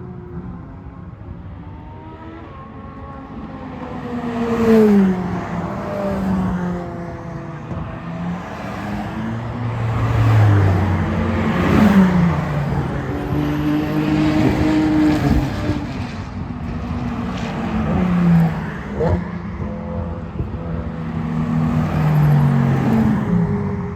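A string of Ferrari sports cars driving past one after another, engines revving and dropping in pitch as each goes by. The loudest passes come about five, twelve, eighteen and twenty-two seconds in.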